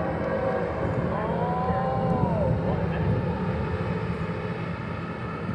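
Low, steady rumble of an idling bus engine, with a brief high tone that rises and then falls about a second in.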